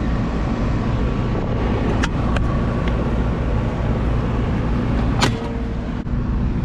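Air-conditioning unit running with a steady, loud low drone, its blower idle from a broken belt. A few sharp metallic clicks sound over it, the loudest about five seconds in.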